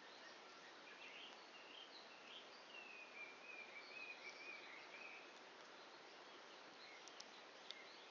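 Faint campfire burning down toward embers, with a steady soft hiss and a few sharp pops near the end. A bird calls in the background with a wavering, falling call in the middle.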